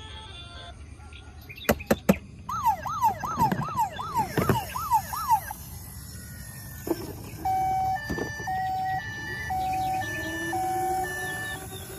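A toy vehicle's electronic siren sounds after a few clicks. It plays a fast wailing yelp, then a run of steady beeping tones, each about half a second long, with short gaps between them.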